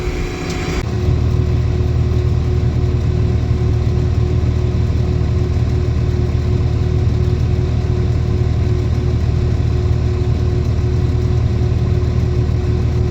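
Farm machine's engine running steadily at a constant speed, with a low hum that grows louder about a second in and a steady whine above it.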